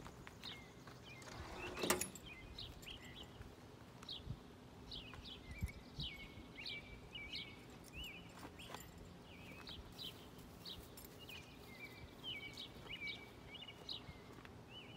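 Small birds chirping over and over in short, sweeping notes, with a short rustle about two seconds in as the saddle is handled.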